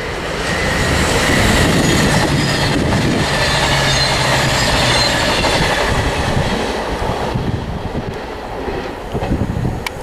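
Arriva CrossCountry Voyager diesel multiple unit passing at speed: the rush of wheels on rail and a steady underfloor diesel engine note swell in within the first second, stay loud for several seconds, then fade as the train moves away.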